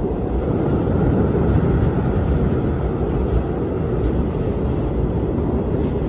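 Howling wind: a steady, low rushing noise that keeps up without a break.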